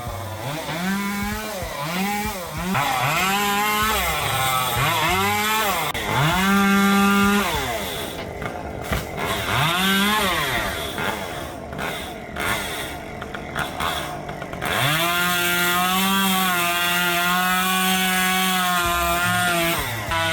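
Two-stroke chainsaw revved up and down over and over, its pitch rising and falling about once a second. It then settles to a high, steady speed for the last few seconds.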